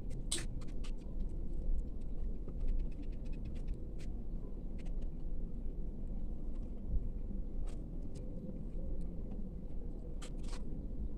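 Light clicks, taps and scrapes of small packaging being handled in an unboxing, with a quick run of ticks two to three seconds in, over a steady low hum.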